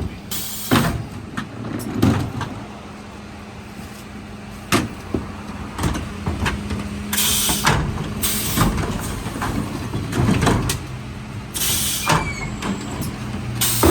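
Mercedes Econic refuse truck running, with a steady hum from the engine and hydraulics. Bins knock and clatter against the Zoeller lifter again and again, broken by short bursts of hiss.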